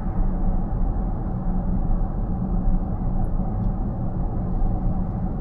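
Steady road and tyre rumble heard inside a car's cabin at highway speed.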